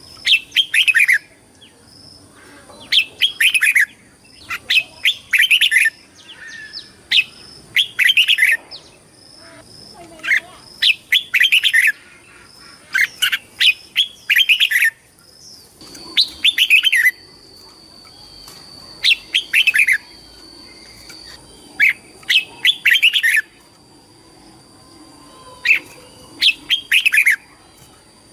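Red-whiskered bulbul singing, a string of short, bright, whistled phrases with falling notes repeated every second or two.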